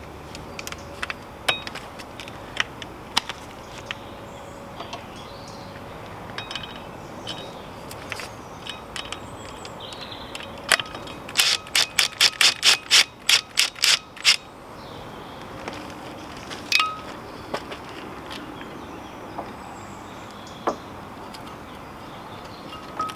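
Ratchet wrench clicking in a quick, even run of about a dozen clicks, about four a second, partway through. Scattered single clicks and clinks of hand tools come before and after it.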